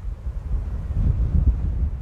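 Wind buffeting the microphone: a low, gusty rumble that rises and falls.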